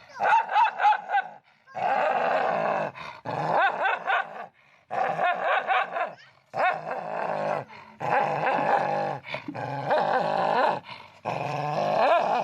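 A dog vocalizing in a run of about eight drawn-out, growly calls of a second or so each, the pitch wavering within each call.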